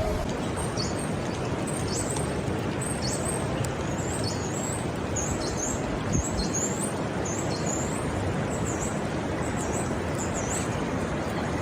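A small bird calling over and over in short, high, dropping chirps, about two a second, over a steady loud rushing noise.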